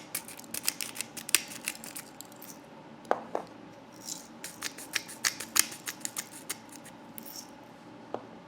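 Shell of a hard-boiled egg being cracked and peeled: a run of irregular sharp crackles and clicks, with two brief ringing clinks about three seconds in and another near the end.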